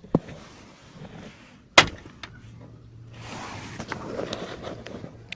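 Honda CR-V door being worked on its door check: a sharp click just after the start and a louder knock a little under two seconds in. These are the clicks and knocks of a worn door check (limiter). A low steady hum follows.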